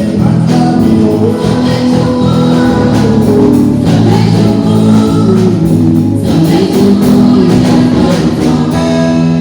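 Gospel choir singing with instrumental accompaniment and a steady percussion beat.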